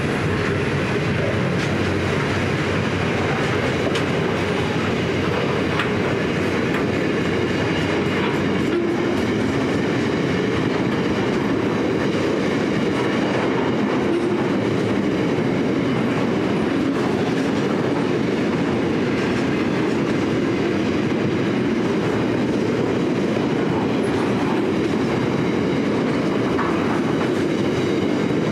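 Freight wagons of a long steel and container train rolling past steadily, steel wheels running on the rails.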